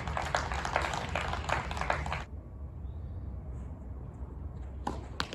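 Spectators clapping for about two seconds, then stopping suddenly, leaving a steady low rumble; two sharp knocks come near the end.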